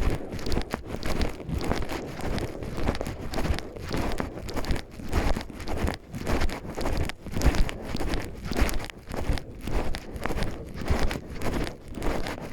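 Footsteps of a person walking steadily, about one to two steps a second, with crunching and rustling underfoot.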